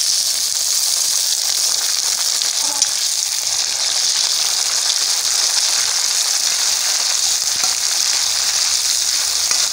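Chopped tomatoes and green chillies sizzling in hot ghee with fried onions in a karahi: a loud, steady frying hiss as the wet vegetables hit the fat, stirred with a ladle.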